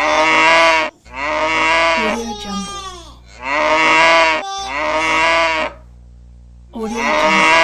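Cow-moo ringtone: a series of about five pitched moos, each roughly a second long, repeating with short gaps; the second one trails off in falling glides.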